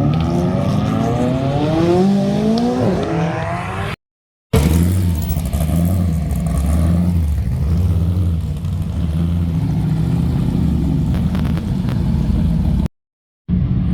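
A sports car engine accelerating, its pitch climbing and dropping back at an upshift about three seconds in. After a short silent break, an engine runs at low, fairly steady revs with a rumbling exhaust.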